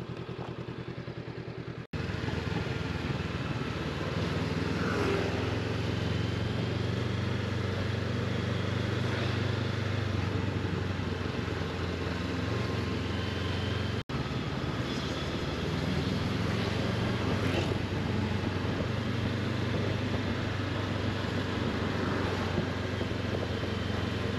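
Honda CB500X parallel-twin motorcycle engine running steadily while riding, with a rushing noise over it. For the first two seconds it pulses evenly at a lower level. The sound breaks off abruptly twice, about two seconds in and again about fourteen seconds in.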